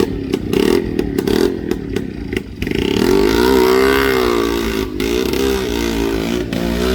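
Tractor engine revving under load. It is uneven at first, then from about two and a half seconds in it runs louder and continuously, its pitch rising and falling.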